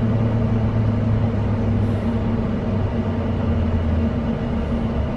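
Interior running noise of a Class 720 Aventra electric multiple unit at speed: a steady rumble with a low electric hum. The hum steps down slightly in pitch about four seconds in.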